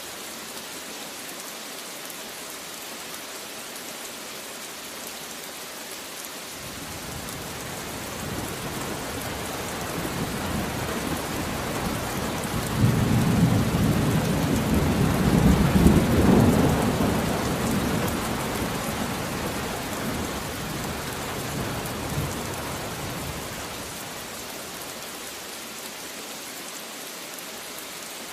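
Steady rain falling, with a long roll of thunder that builds about a quarter of the way in, is loudest near the middle and rumbles away before the end.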